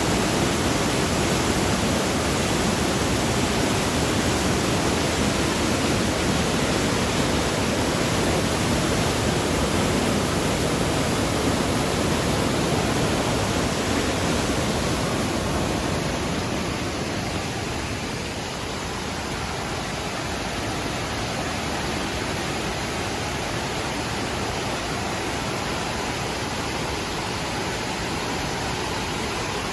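Mountain stream swollen by rain, its water rushing steadily over rocks; the sound grows a little quieter and duller about halfway through.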